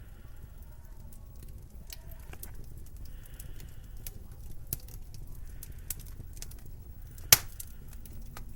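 Steady low winter wind rumble with scattered, irregular crackling clicks and one loud sharp snap about seven seconds in.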